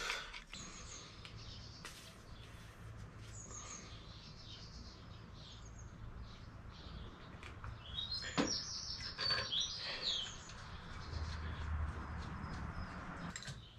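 Small birds chirping and twittering, clearest about eight to ten seconds in, over a faint low hum, with a single sharp click of metal near the middle.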